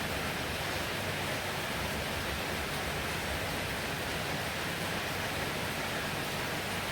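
Heavy rain falling, a steady even hiss with no breaks or distinct drops.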